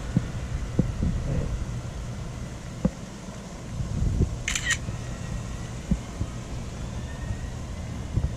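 Low rumble of breeze on a phone microphone while walking outdoors, with scattered light handling knocks and a short, sharp double click about four and a half seconds in.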